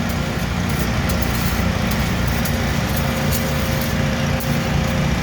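A small engine running steadily at a constant speed, with faint scattered crackles high above it.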